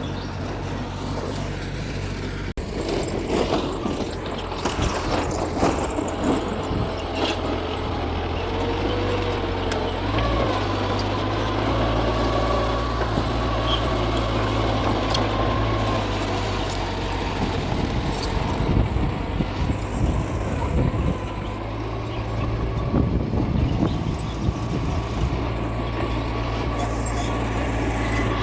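Mitsubishi G2 bulldozer's diesel engine running steadily under load, with irregular clattering from the machine's working from about three seconds in.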